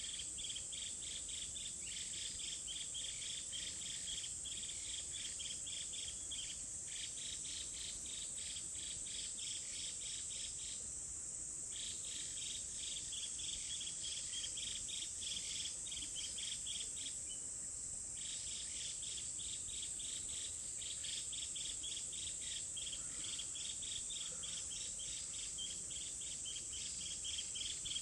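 Insects chirping in a fast, even pulse, over a steady high-pitched insect trill. The pulsing stops briefly twice, about eleven and seventeen seconds in.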